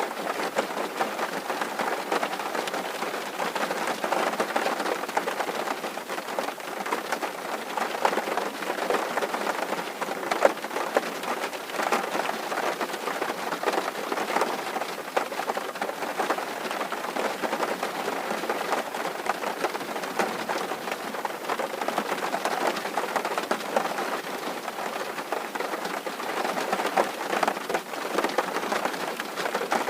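Steady rain on a tin roof: a dense, even patter of countless small drop hits on sheet metal, with no pauses.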